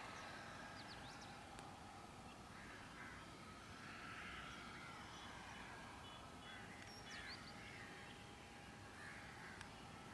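Quiet open-air ambience with faint, distant bird calls: a few short high chirps and several softer, harsher calls spaced a second or two apart, over a faint steady hum.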